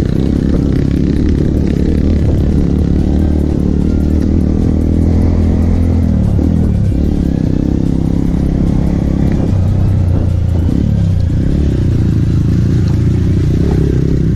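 Trail motorcycle engine running hard under way, its revs rising and falling with the throttle and dipping briefly twice around the middle.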